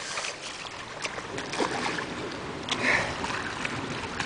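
Rain and running water: a steady wash of noise with scattered small splashes and drip-like ticks, and a brief louder splash about three seconds in.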